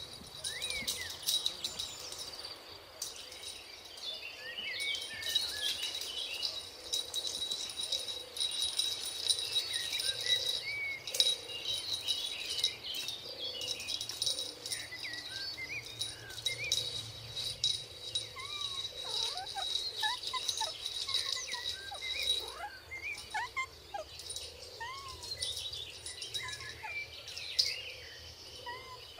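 Outdoor ambience: many short bird chirps over a steady, high-pitched insect whine, with scattered clicks.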